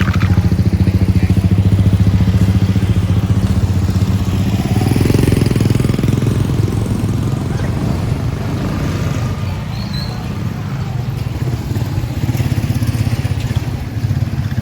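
A small motorcycle engine running close by with a fast, even pulse, loudest in the first few seconds and easing off later.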